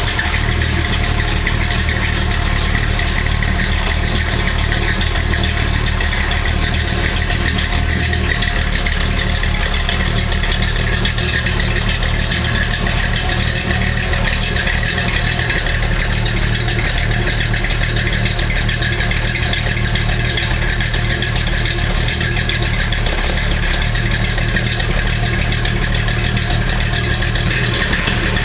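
A 1968 Oldsmobile Toronado's 455 V8 idles steadily just after being woken up, heard at the rear from its exhaust.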